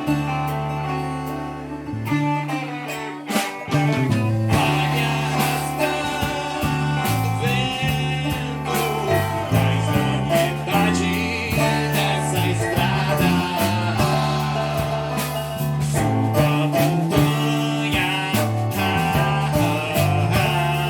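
Live band music: electric bass, drums and guitars playing a song with a moving bass line and steady drum hits.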